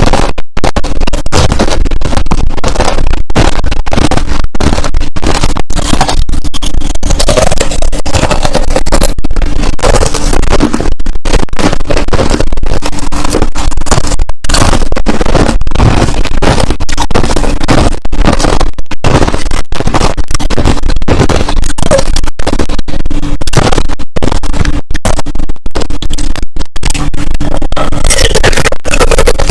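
Close-miked chewing of crushed ice: loud, dense, continuous crunching and crackling of clear and powdery ice being bitten and ground between the teeth.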